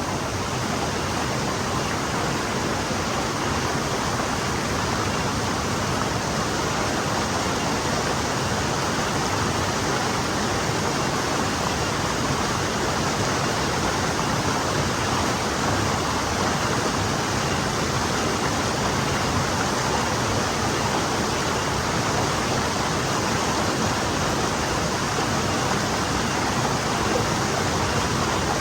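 Forest stream flowing over rocks, a steady rushing and babbling of water.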